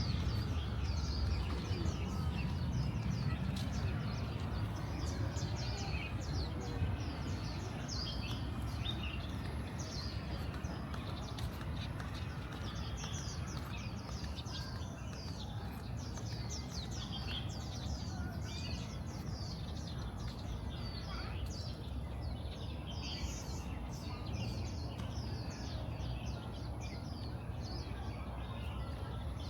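Small birds chirping, a steady stream of short, high calls from several birds over a low, even background noise.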